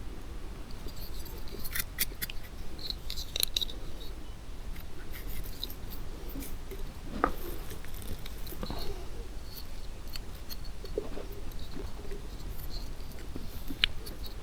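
Scattered small clicks, snaps and crackles of forest-floor litter being disturbed, over a steady low rumble.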